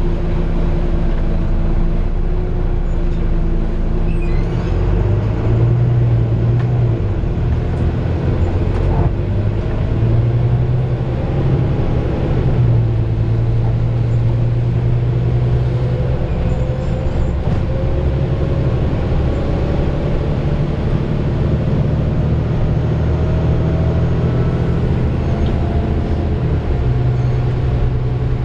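Volvo B9TL double-decker bus's six-cylinder diesel engine and drivetrain running on the move, heard on board. The engine note shifts as it pulls away and changes gear, and in the second half a faint whine climbs steadily in pitch as the bus gathers speed.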